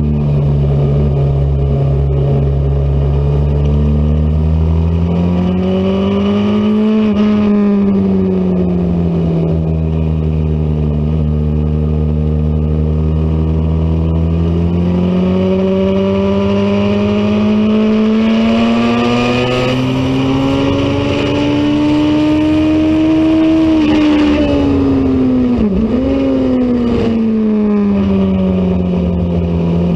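Race motorcycle engine running hard at racing speed, its pitch climbing slowly over several seconds and easing back down as the bike accelerates and slows. Near the end the pitch dips sharply for a moment and then recovers.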